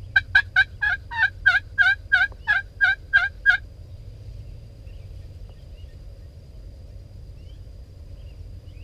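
A series of about a dozen turkey yelps, sharp and evenly spaced at roughly three a second, stopping about three and a half seconds in.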